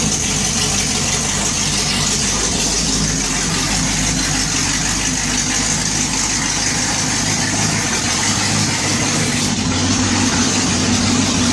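1969 Pontiac 428 HO V8 in a 1967 GTO idling steadily, warming up after a cold start.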